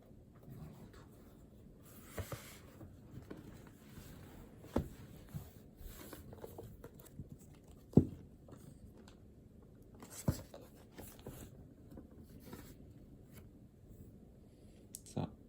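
Pen writing on paper at a desk, scratchy and intermittent, with a few sharp knocks; the loudest comes about eight seconds in.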